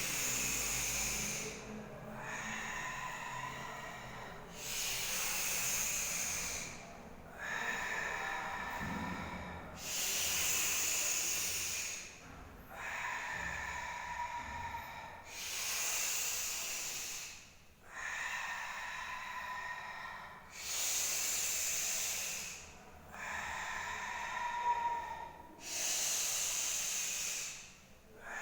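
A person doing a breathing exercise: loud, hissing breaths in and out, one after another in a steady rhythm, each lasting about two seconds, with alternate breaths sounding brighter and lower.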